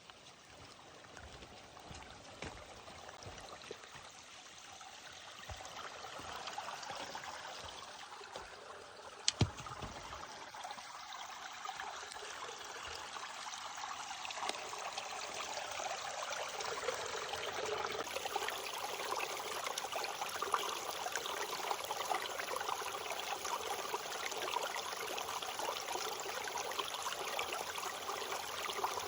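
Hiker's footsteps on a forest trail, then the rushing of a creek growing steadily louder as it is approached, with a sharp knock about nine seconds in.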